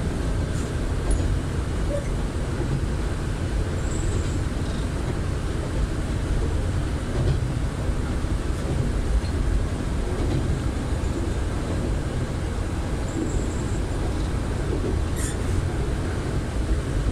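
Kanto Railway KiHa 310 diesel railcar running along the track, heard from inside the car: a steady noise of engine and wheels on rail.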